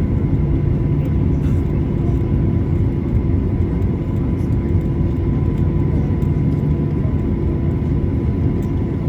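Boeing 737-800's CFM56-7B engines idling, heard from inside the cabin while the airliner taxis after landing: a steady low rumble with a faint, steady high hum running through it.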